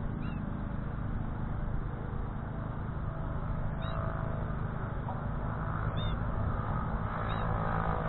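A small songbird gives four short, high chirps that drop in pitch, spaced one to four seconds apart, over a steady low rumble.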